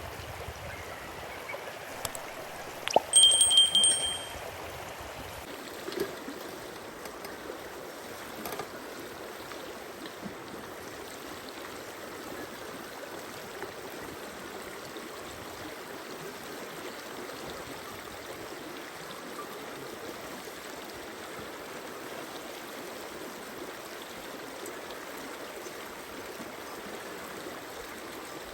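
A stream running steadily. About three seconds in there is a brief, loud, high ringing tone lasting about a second.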